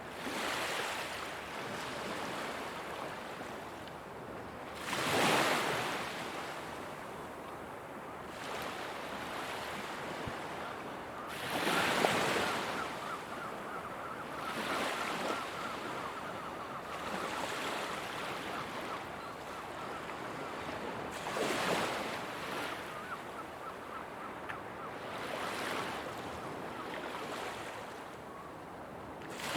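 Ocean surf: a continuous wash of waves on a shore, swelling as each wave breaks every few seconds, with the biggest breakers about five and twelve seconds in.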